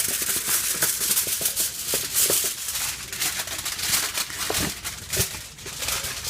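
Sheet of aluminium foil crinkling and rustling as it is handled, a dense run of crackles.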